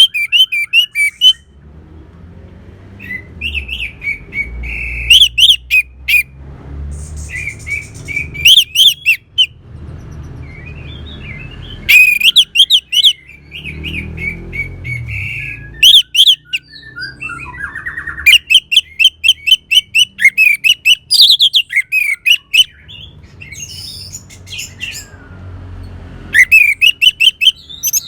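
Orange-headed thrushes singing: loud, fast phrases of rapidly repeated high notes, one burst every second or few, with short gaps between them. A faint low rumble runs underneath.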